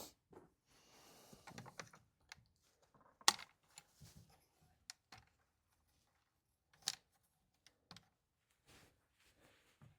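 Faint scattered clicks and taps of small parts being handled during repair work on a chainsaw's recoil starter and its screws, with a short rustle about a second in and two sharper knocks about three and seven seconds in.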